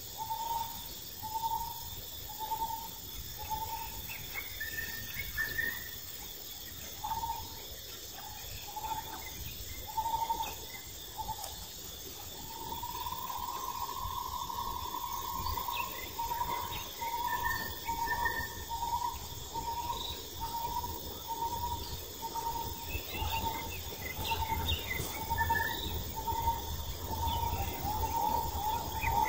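Outdoor ambience: a bird repeats a short clear note about one and a half times a second, with a longer held call near the middle and a few higher chirps, over a steady high insect hum.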